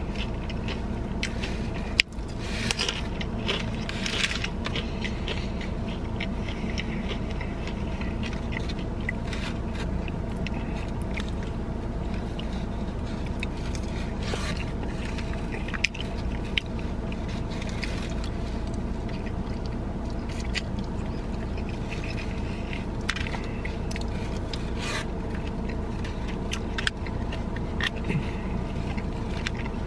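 Eating sounds: a utensil scraping and clicking in a takeout food container, with chewing, as scattered short scrapes and clicks. Under them runs a steady hum with several constant tones, the car's air conditioning blowing.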